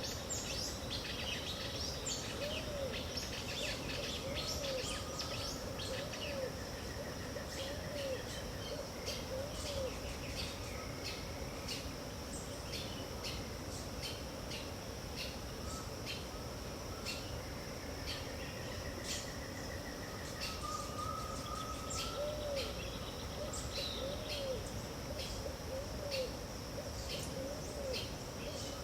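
Dawn chorus of wild birds: many short, high chirps throughout, with two runs of low, arched hooting notes at an even pace, one early and one about two-thirds of the way in, over a steady high-pitched tone and a background haze.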